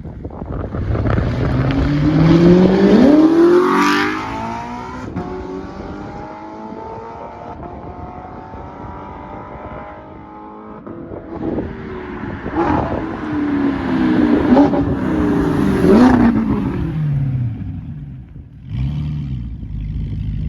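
Straight-piped Audi R8 V8 accelerating hard past twice. Each time the engine note climbs in pitch to a loud peak, then drops away and fades: the first pass comes a few seconds in, and the second, after a quieter lull, about three-quarters of the way through.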